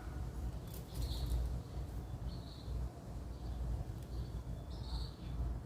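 A small rescued bird gives short, high chirps, about four of them spread across a few seconds, over a low rumble.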